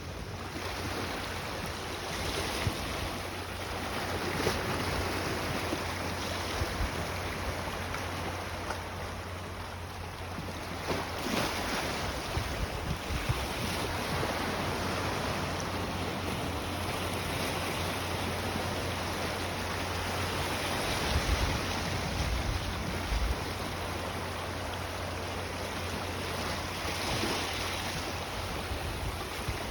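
Sea waves washing, rising and falling every few seconds, with wind on the microphone and a steady low hum underneath.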